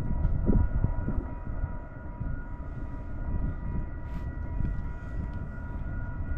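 A distant approaching diesel freight train: an uneven low rumble with faint, steady high tones held above it.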